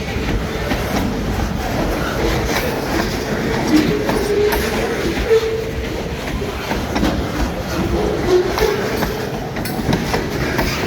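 Railcars of a long train rolling past, wheels clacking steadily over the rail joints, with brief wheel squeals now and then.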